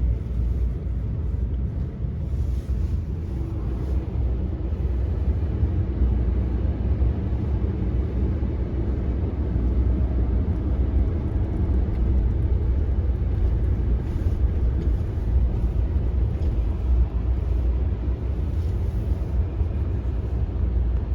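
Steady low rumble of a car driving, road and engine noise heard from inside the vehicle.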